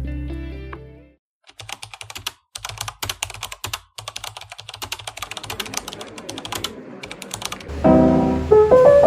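Background music fades out about a second in; then several seconds of rapid, irregular clicking, and piano music starts near the end.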